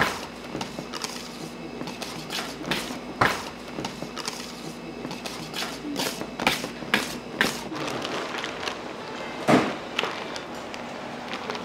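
Irregular knocks, clicks and clinks of utensils and trays being handled in a pastry kitchen, over a steady machine hum. The loudest knocks come about three seconds in and about nine and a half seconds in.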